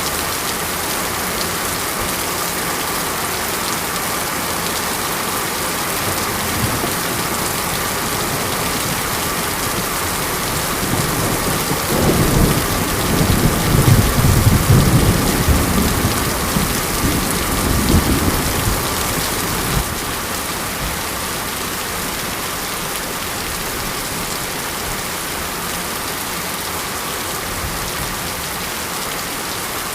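Steady heavy rain. A roll of thunder rumbles in about twelve seconds in and dies away some eight seconds later.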